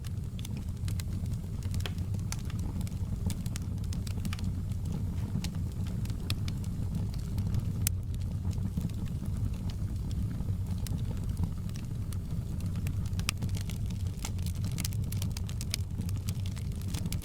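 Campfire burning: a steady low rumble under frequent sharp crackles and pops of burning wood, the crackles coming thicker near the end.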